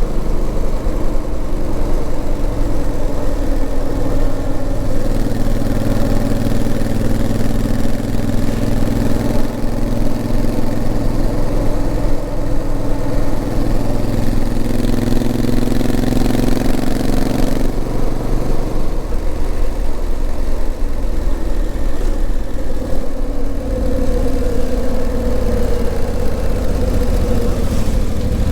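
Honda CRF1000L Africa Twin's 998 cc parallel-twin engine running under way. The revs climb gradually for several seconds, the pitch drops suddenly about eighteen seconds in, and it then runs on at lower revs.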